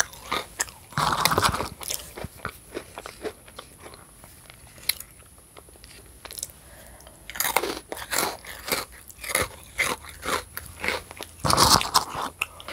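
Close-miked crunching and chewing of animal crackers, with many crisp crunches in clusters: about a second in, again from about seven to nine seconds, and near the end.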